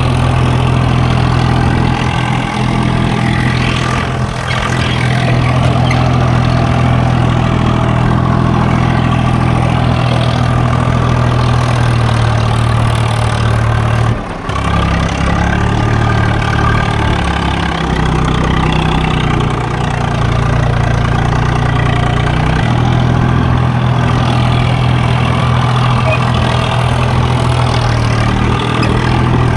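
Swaraj 744 FE tractor's three-cylinder diesel engine running steadily under load, pulling a trolley stuck in mud. About halfway through its note dips briefly and runs lower for several seconds before settling back.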